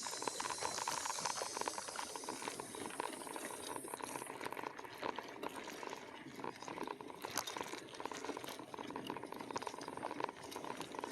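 E-bike rolling over a rough dirt trail: a continuous crackle of tyres on twigs and debris, with many small clicks and rattles from the bike and a steady hum underneath.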